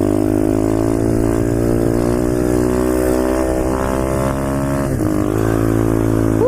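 Pit bike's small single-cylinder engine pulling under throttle, its pitch climbing steadily. About five seconds in the pitch drops briefly, then climbs again.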